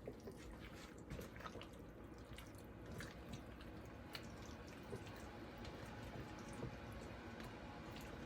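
Chicken thighs and red potatoes being stirred in olive oil in a large bowl: faint, irregular small clicks and knocks.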